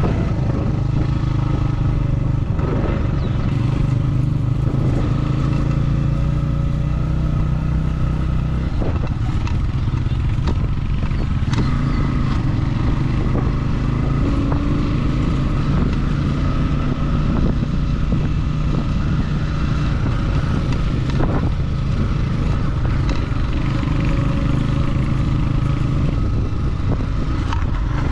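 Motorcycle engine running steadily while riding on a dirt road, with scattered short knocks and rattles; the engine note shifts about eight or nine seconds in.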